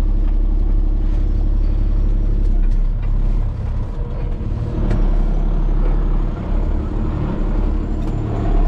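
Loaded heavy truck's engine running steadily while driving, a loud low drone heard from inside the cab, with slight dips in level about three and a half and six and a half seconds in.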